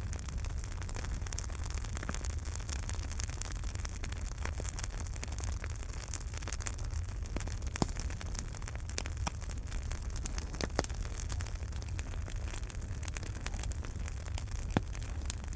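Wood fire in a fireplace crackling steadily, with many small snaps, a few louder pops and a low steady rumble of the flames underneath.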